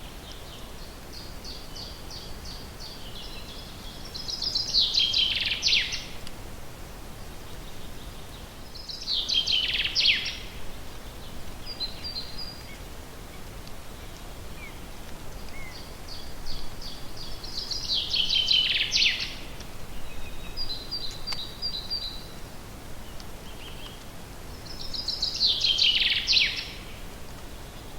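A songbird singing the same short song four times, each a run of high repeated notes ending in a falling flourish, with softer high calls between the songs. A steady low background noise runs underneath.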